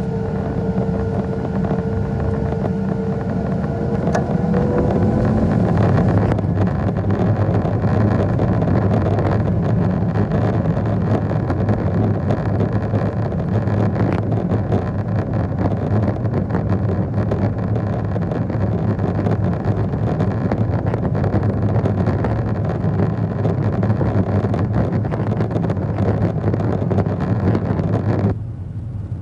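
Boeing 737-700's CFM56-7B turbofan engines at takeoff thrust: a whine rises slightly over the first few seconds, then a steady, loud roar and rumble of the takeoff run.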